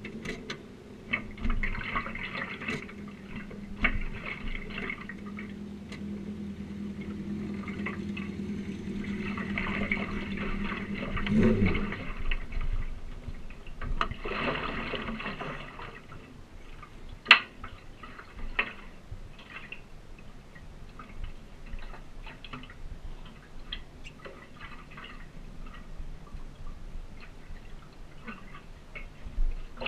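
A motorcycle engine running steadily, rising sharply in pitch about eleven seconds in and then stopping. Scattered clicks and rushing noise follow.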